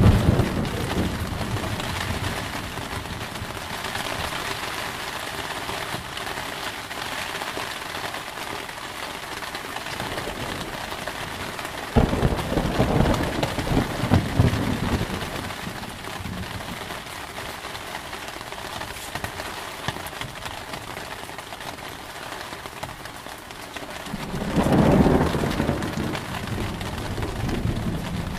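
Thunderstorm: steady rain throughout with thunder. A rumble is fading at the start. About twelve seconds in, a sudden sharp thunderclap rolls into a rumble lasting a few seconds, and another rumble comes near the end.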